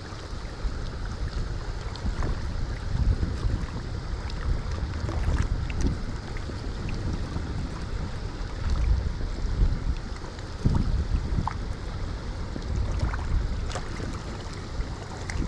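Wind buffeting the microphone in uneven gusts over the steady rush of river current running across the rocks of a wing dam.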